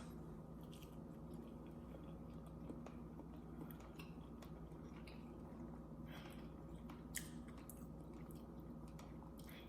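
Faint chewing of rotisserie chicken, with scattered soft mouth clicks over a steady low electrical hum.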